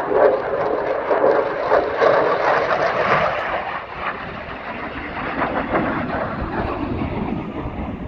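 An aircraft flying past at an air show, a loud rushing engine noise that is strongest over the first few seconds and eases off about halfway through.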